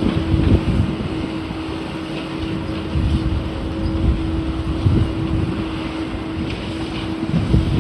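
Demolition machinery running with a steady droning tone, under heavy wind buffeting the microphone, with a few low thumps.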